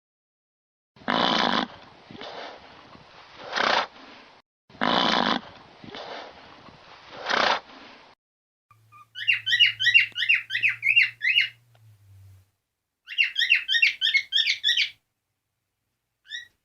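A large animal's loud breathy calls, heard as two matching pairs of strong bursts with a softer one between each. These are followed by two spells of a bird's rapid, high chirping trills, each a couple of seconds long.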